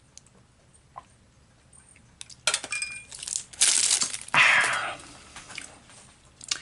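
Handling noise from MRE components and packaging on a table: a few faint clicks, then a couple of seconds of loud, irregular rustling and clinking about halfway through.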